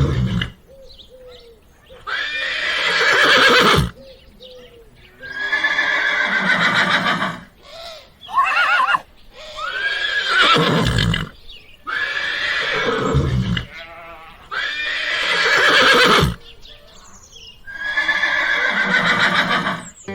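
Horse neighing: a series of about seven whinnies, each a second or two long, with short pauses between them.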